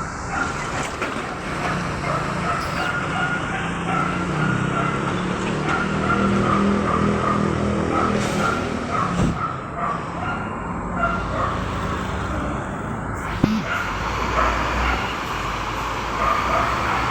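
Road traffic: motor vehicle engines running steadily as vehicles pass, swelling and fading, with one sharp knock about thirteen seconds in.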